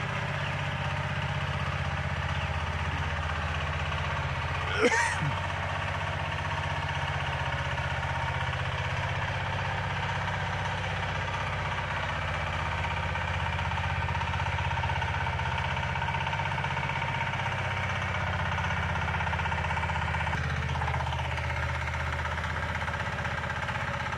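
Mini tractor engine running steadily, with one brief sharp sound that sweeps down in pitch about five seconds in.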